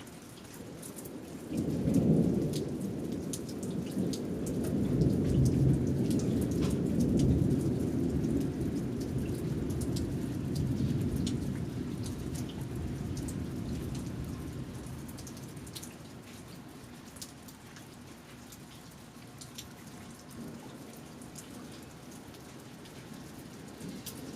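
Thunderstorm: a long roll of thunder starts suddenly about a second and a half in. It rumbles for around a dozen seconds and fades away, over steady rain with scattered drips and drops.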